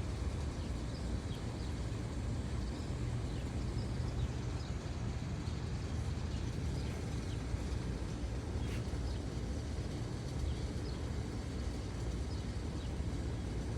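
Outdoor background: a steady low rumble with faint, scattered short chirps.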